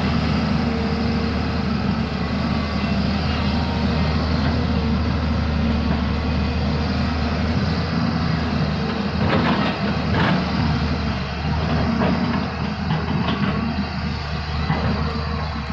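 Diesel engine of a heavy earthmoving machine running steadily under work, with a couple of short knocks about nine to ten seconds in.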